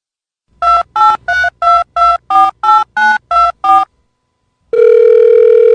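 Touch-tone telephone dialing: eleven short two-note keypad beeps in quick succession, about three a second. After a short pause, a steady, loud tone starts near the end.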